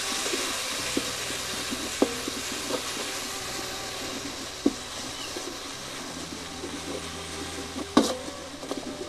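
Ground spice paste of garlic, shallots, chillies and kencur sizzling in hot oil in a metal wok, with a metal spatula scraping and tapping against the pan. The sizzle is steady and eases a little; the sharpest taps come about two seconds in and about eight seconds in.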